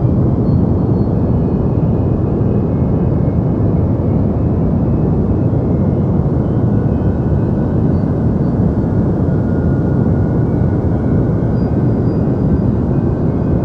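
Steady deep white noise for sleep: an even, low hiss with little treble and no change in level.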